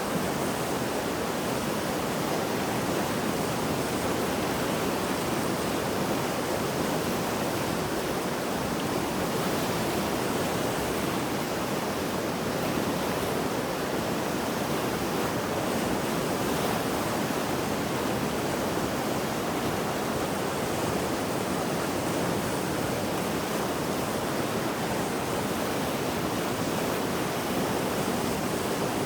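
Mountain river swollen by heavy rain and flooding, its fast water rushing in a steady, unbroken flow.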